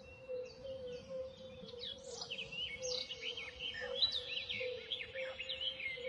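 Birds chirping and twittering in many short, quick calls that grow busier after about two seconds, over a steady wavering drone.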